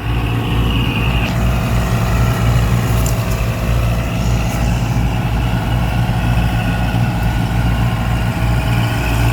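Vehicle engine running steadily with a deep, even note.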